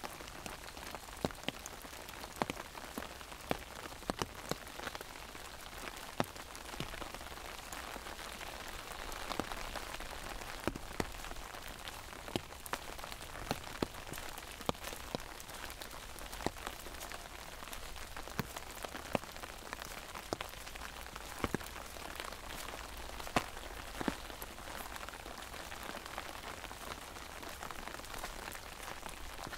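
Steady rain falling, with irregular sharp taps of heavy drops striking an umbrella overhead.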